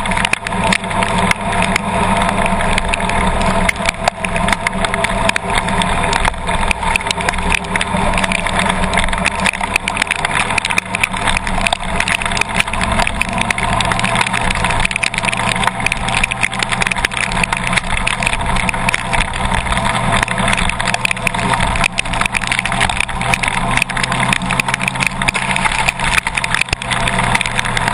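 Heavy storm rain beating on a car's body, a dense crackling patter, over the low steady hum of an idling engine.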